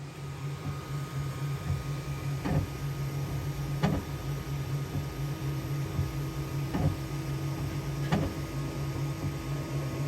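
Bambu X1 Carbon 3D printer running mid-print: a steady motor and fan hum that starts at once, a second higher tone joining about halfway through, and four sharp clicks spaced a second or two apart.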